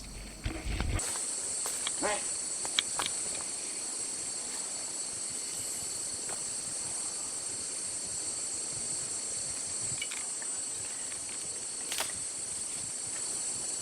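Steady chorus of rainforest insects, a high continuous buzzing in several pitches, starting about a second in. A few faint clicks and snaps stand out now and then.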